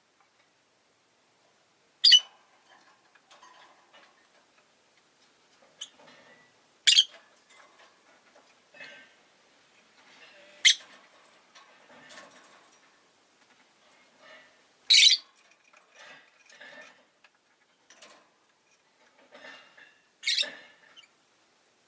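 Rosy-faced lovebird calling: five loud, short, shrill chirps spaced four to five seconds apart, with fainter chatter and small clicks between them.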